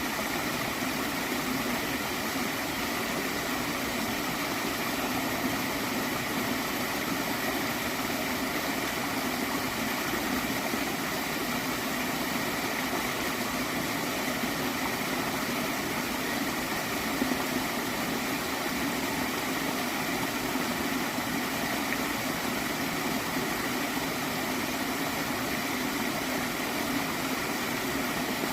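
Water in a small stream flowing and gurgling steadily.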